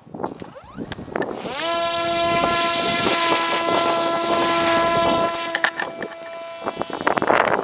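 Parrot Disco fixed-wing drone's electric propeller motor spinning up with a rising whine, then holding a steady whine for about five seconds before dropping away. Wind buffets the microphone throughout, gusting near the end.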